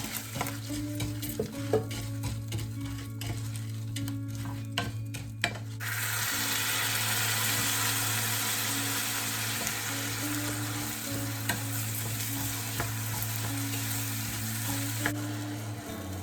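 Food frying in a pan: for the first six seconds or so, clicks and knocks of a utensil stirring, then a steady sizzle that stops shortly before the end.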